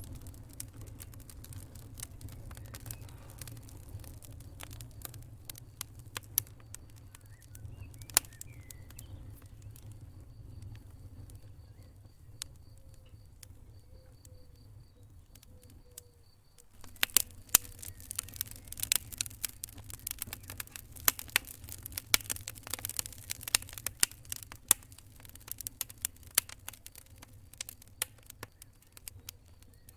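Wood fire crackling and popping over a low steady rumble. The crackles are sparse at first, then come much thicker and louder a little past halfway through.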